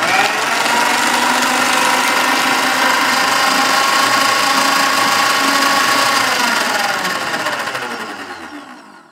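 A steady, loud mechanical whirring that slows and fades out over the last couple of seconds, its tones falling in pitch as it winds down.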